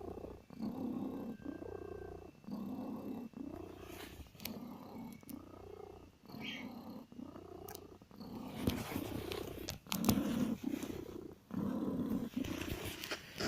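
Mother cat purring in a steady rhythm of long pulses, about one a second. A brief high squeak sounds a little after six seconds, and scratchy rustling with a few clicks joins the purr in the second half.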